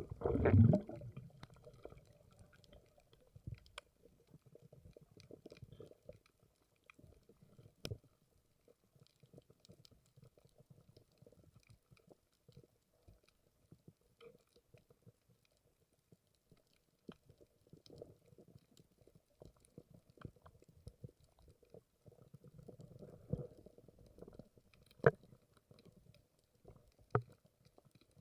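Underwater sound on a spearfishing dive: a muffled low rumble with scattered sharp clicks. A louder muffled surge comes right at the start.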